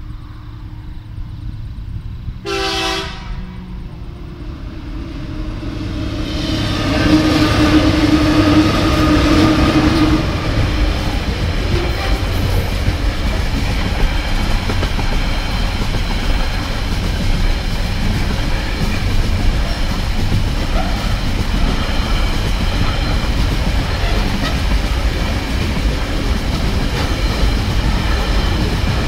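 TasRail TR-class diesel locomotives sound the horn for the level crossing: a short blast about two seconds in, then a longer one a few seconds later. The locomotives then pass and a long rake of container wagons rolls by with a steady rumble and wheel clatter.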